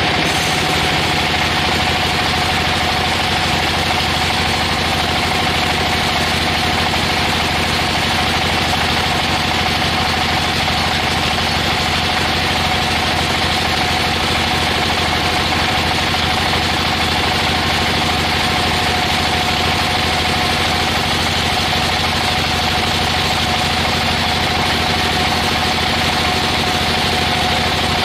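Sawmill saw machine running steadily: an even engine-like drone with a constant high tone, with no change through the whole stretch.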